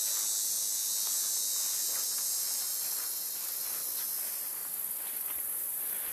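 Steady high-pitched buzzing chorus of insects such as cicadas or katydids. The highest part of the buzz drops away about four and a half seconds in.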